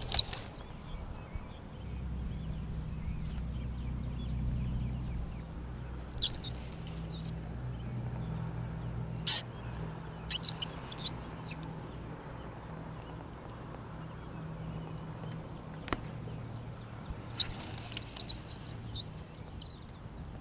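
Small birds chirping in short bursts, four times, over a steady low hum.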